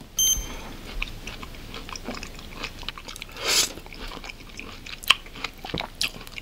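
A person eating mandarin orange (mikan) segments close to the microphone: wet chewing with many small irregular clicks, and a louder bite about three and a half seconds in. A short, bright bell-like ding sounds about a quarter second in.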